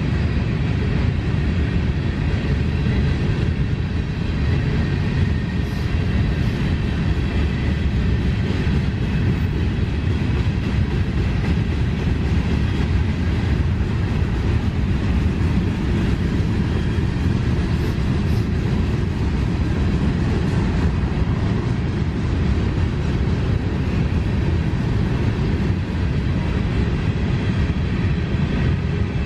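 Freight train of covered hopper cars rolling past: a steady, loud low noise of steel wheels on rail.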